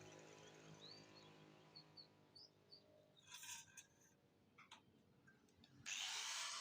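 Quiet workshop background with a few faint short chirps, then about six seconds in a power tool starts suddenly with a loud steady noise.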